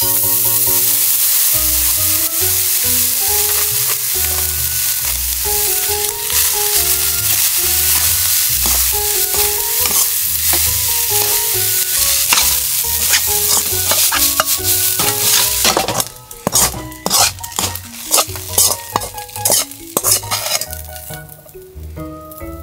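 Frozen fried rice sizzling loudly in a hot wok as it is poured in and stir-fried with a metal ladle. About two-thirds of the way in the sizzle drops away and the ladle clinks and scrapes against the wok in quick strokes.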